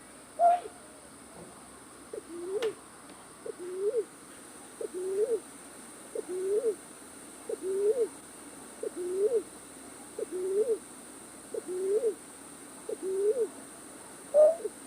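Night bird calling: nine short hoots, each rising and hooking upward, evenly about a second and a quarter apart, with a higher, shorter note near the start and another near the end. A single sharp click about two and a half seconds in, and a steady high whine behind.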